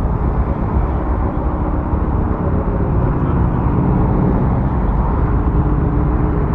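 Steady wind rush and engine drone from riding a motorcycle at highway speed, heard from a rider-mounted camera.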